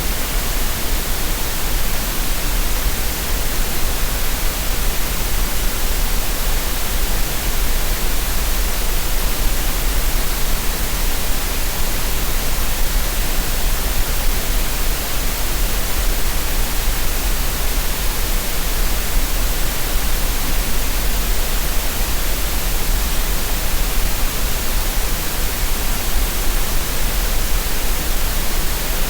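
Synthetic green noise for tinnitus relief: a steady, unchanging hiss spread across the whole range, with a strong deep rumble at the very bottom.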